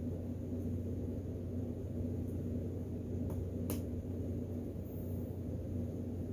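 Steady low room hum, with two small clicks about half a second apart near the middle.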